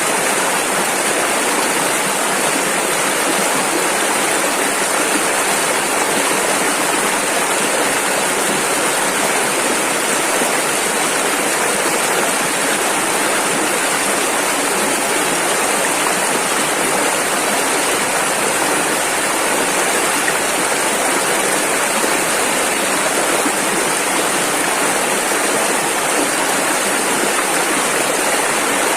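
Rushing river rapids: a dense, steady rush of fast-flowing water.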